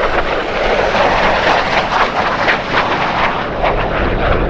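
MiG-17 Fresco's Klimov VK-1 turbojet, loud as the fighter makes a low pass, with a crackling texture through the middle of the pass.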